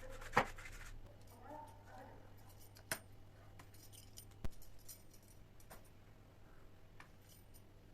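Kitchen utensils and dishes being handled: light clicks and taps, with three sharper knocks about half a second in, near three seconds and about four and a half seconds in.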